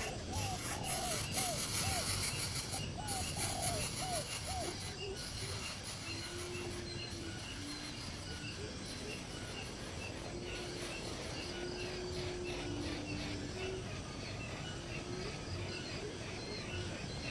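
Birds calling: a quick run of short, repeated arched chirps for the first few seconds, then low, steady whistled notes through the rest, over a constant background of insects.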